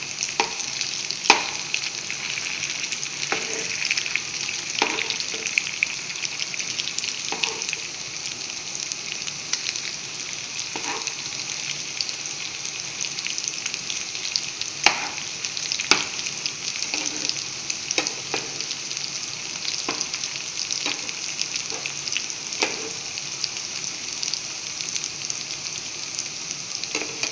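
Potato-and-semolina fingers shallow-frying in hot coconut oil: a steady sizzle. A few sharp clicks come from the metal spoon knocking the pan as the fingers are turned, the loudest about a second in and two more about halfway through.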